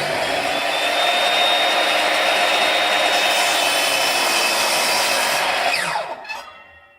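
Electric chop saw running at full speed while cutting the end off a wooden mallet, then switched off about six seconds in, its whine falling as the blade winds down.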